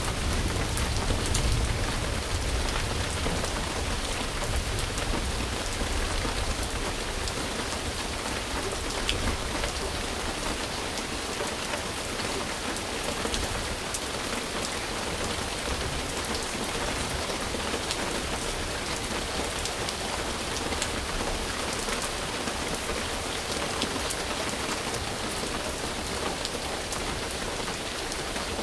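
Steady, dense rain falling on a surface, with the sharp ticks of single drops standing out here and there. A low rumble, likely distant thunder, sits under the rain at the start and fades away over the first several seconds.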